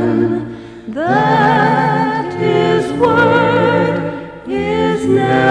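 A choir singing a hymn in harmony, the voices holding and gliding between notes, with two short breaks: about a second in and near four and a half seconds.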